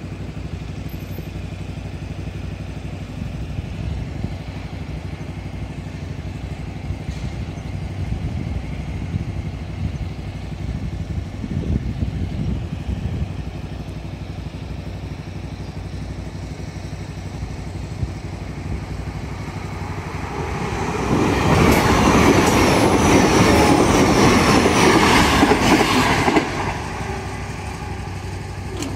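A passenger train passing close at speed: a loud, dense rush of wheel and running noise lasting about five seconds, starting about three-quarters of the way in and cutting off suddenly. Before it, a steady low rumble.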